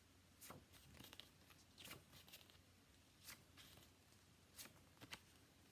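Near silence: room tone with about five faint, short clicks or rustles spread through it.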